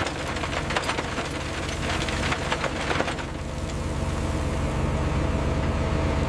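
Heavy diesel paving machinery running steadily, with a scatter of sharp metallic clanks and knocks over the first three seconds.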